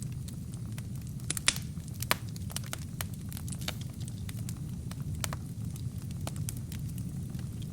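Burning wood crackling in a fireplace: irregular sharp pops and snaps over a steady low rumble of the flames, with two louder pops about one and a half and two seconds in.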